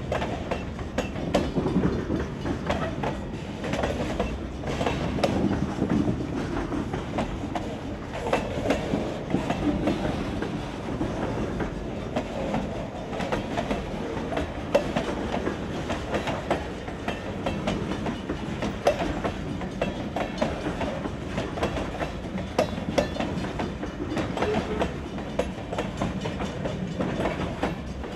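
Vermont Railway freight train's covered hopper cars rolling past close by: a steady rumble of steel wheels on rail, broken by frequent irregular clicks and clanks.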